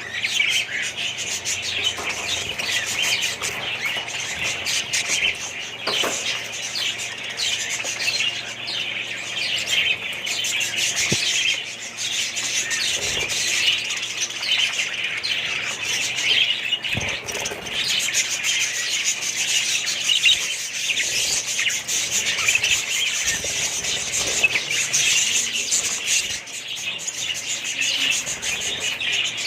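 Many small pet birds chirping and squawking all at once, a continuous dense chatter.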